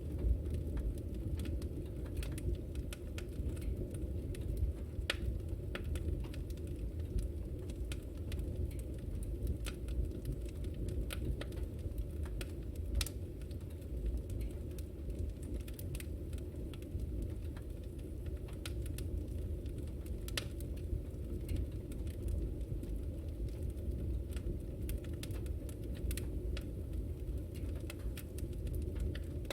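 Wood fire crackling in a fireplace: a steady low rumble of flames with scattered, irregular sharp pops and crackles.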